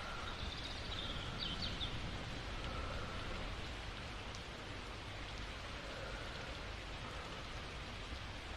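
Steady rain falling, an even hiss of drops, with soft slow breathing faintly beneath it about every three seconds. A few brief high chirps come about a second and a half in.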